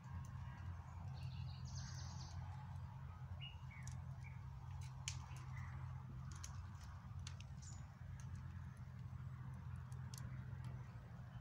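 Faint bird chirps, a few short calls in the first few seconds, over a low steady hum, with scattered small clicks.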